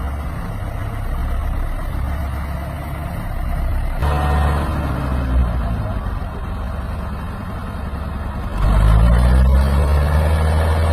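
Massey Ferguson 385 tractor's diesel engine running hard under load. It grows louder about 4 seconds in, then revs up sharply and louder still near the end.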